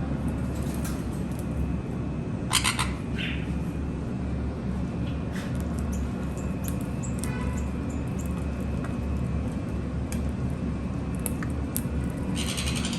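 Conures giving a few short, sharp squawks, one about two and a half seconds in, a smaller one just after, and a longer one near the end, over a steady low rumble.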